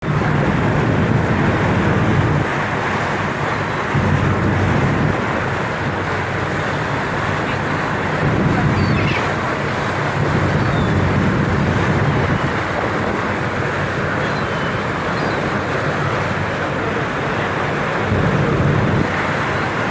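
Wind buffeting the microphone in repeated deep gusts, over a steady rush of sea and wind noise.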